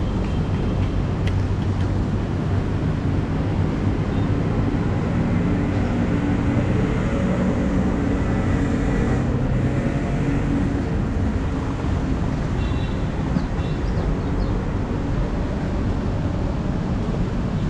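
Steady low rumble of a train standing at a station platform, running without change.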